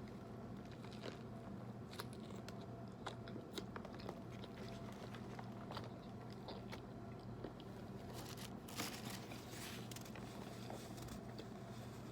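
Faint chewing and crunching of a Subway tuna sandwich with lettuce, onion and bell pepper, with scattered small clicks and a short louder rustle about nine seconds in.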